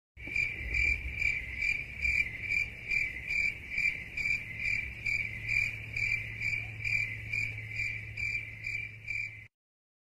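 Crickets chirping in an even rhythm, about two and a half chirps a second: the "crickets" meme sound effect that stands for silence. The chirping stops abruptly about nine and a half seconds in.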